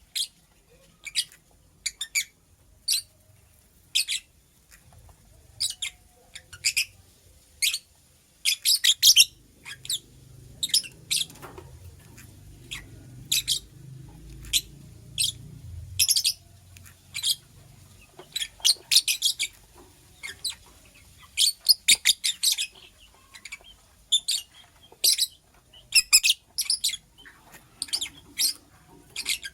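Lovebird chirping: short, sharp, high-pitched chirps, singly and in quick clusters, roughly one to two a second.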